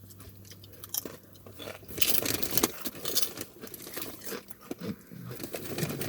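Close-up chewing and crunching of potato chips, a dense run of crisp crunches starting about two seconds in.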